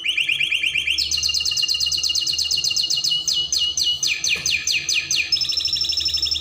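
Spanish Timbrado canary singing a continuous run of rapid trills, each trill a fast series of repeated notes that switches pitch and speed every second or so, with a slower stretch of downward-sweeping notes a little past the middle.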